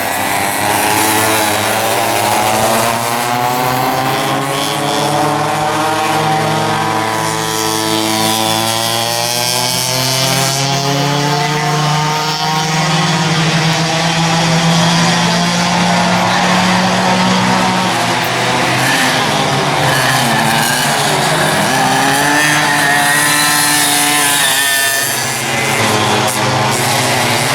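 Several racing go-kart engines running hard, their overlapping pitches rising and falling as the karts accelerate and lift through the corners, with one long climbing note in the middle.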